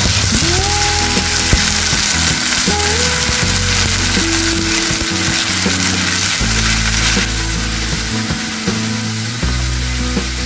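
Corned beef and onions sizzling in a hot frying pan as they are stirred and broken up with a wooden spatula, with background music playing throughout.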